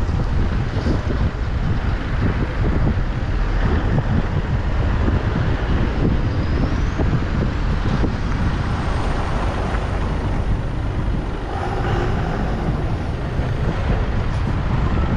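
Steady rumble and road noise of a moving car, with wind buffeting the microphone.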